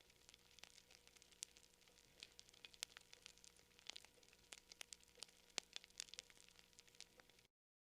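Campfire crackling: irregular sharp pops and snaps of burning wood over a faint hiss. Near the end it cuts to silence for a moment.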